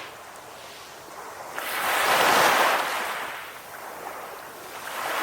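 Calm sea waves: one wave swells and washes in, loudest about two seconds in, then falls away, and a smaller one rises near the end.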